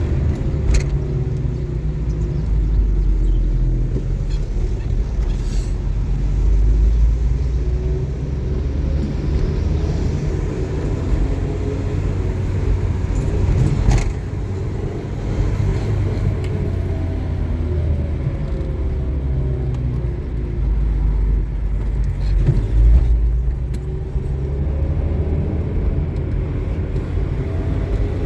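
Motor vehicle engine running while driving, a steady low rumble whose pitch rises and falls slowly as the revs change, with a few brief clicks and rattles.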